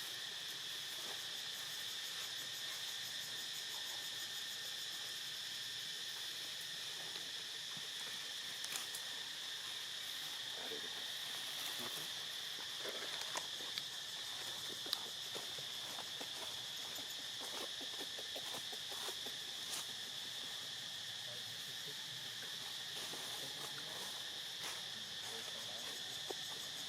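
Steady insect chorus: a continuous high-pitched drone, with scattered faint clicks and rustles.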